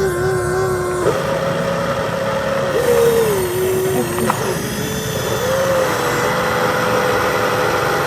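Electric motors of radio-controlled construction machines whining, the pitch stepping up and down and gliding as the load changes.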